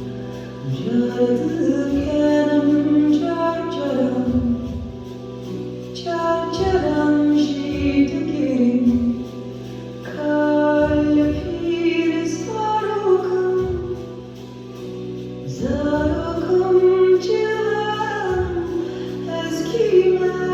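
Music: a woman sings long, winding melodic lines over steady held low notes, with a low thud every second or two.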